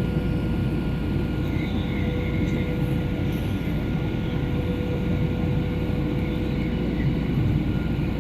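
Steady cabin noise inside a Boeing 737 in flight: a constant rumble of the engines and airflow, with a steady thin hum running through it.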